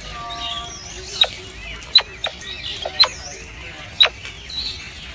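Bird calls: short, sharp calls falling quickly in pitch, about one a second, over faint chirping.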